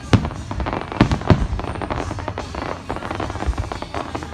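Aerial fireworks bursting: three sharp bangs in the first second and a half, followed by a run of crackling.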